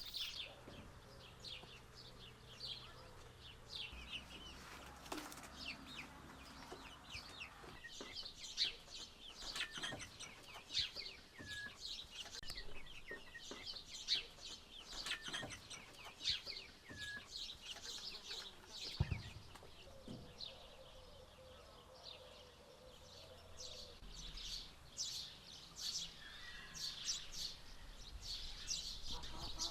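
Chickens clucking among many small birds, with quick high chirps following one another throughout.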